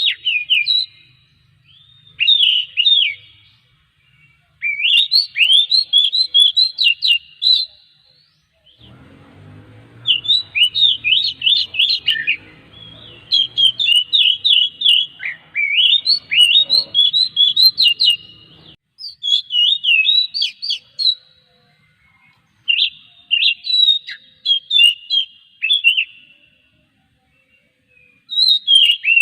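Oriental magpie-robin (kacer) singing: quick runs of high, rising and falling whistled notes in repeated phrases, with short pauses between them.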